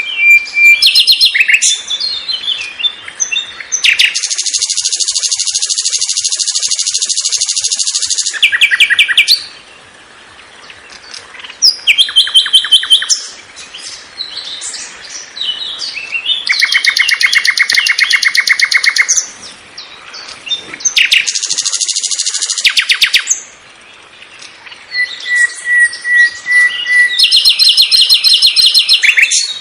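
Long-tailed shrike (cendet) singing a varied song full of mimicry: several harsh, very rapid rattling phrases lasting a few seconds each, alternating with short clear whistles and quick chirps and trills.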